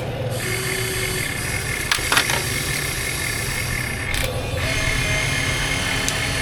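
Radio-controlled scale construction machine running: a steady low rumble under electric motor whines that start, stop and shift in pitch. A few sharp knocks about two seconds in and again near four seconds.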